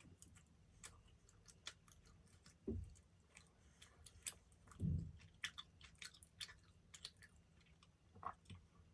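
A person chewing a baked dessert close to the microphone: faint, quick mouth clicks throughout, with two low thuds about a third and halfway through.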